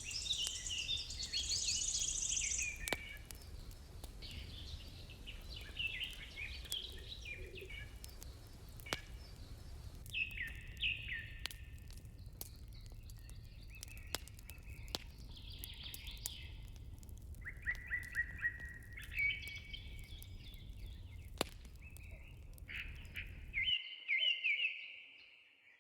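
Songbirds chirping and warbling, several phrases overlapping, over a steady low rumble, with scattered sharp crackles of a wood fire. The rumble cuts off suddenly near the end, leaving only the birdsong.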